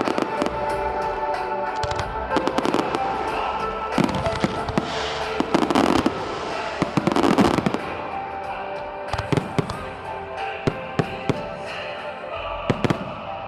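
Fireworks bursting in quick succession, dense bangs and crackling that thin out to separate bangs in the second half, with music playing alongside.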